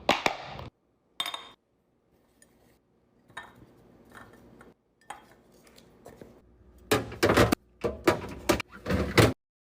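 Containers and bottles being handled and set into a fridge while restocking it: scattered knocks, clinks and rattles, with a dense cluster of louder ones near the end before the sound cuts off suddenly.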